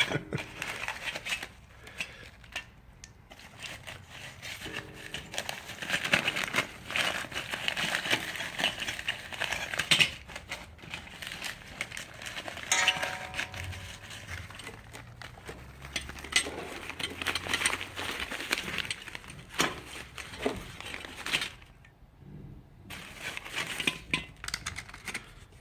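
Camping stove gear being handled: irregular rustling and crinkling of a bag or packaging, with scattered clicks and light clinks of small metal parts.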